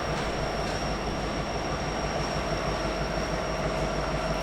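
Railroad train rolling by: a steady rumble of rail noise with a thin, steady high whine from the wheels on the rails.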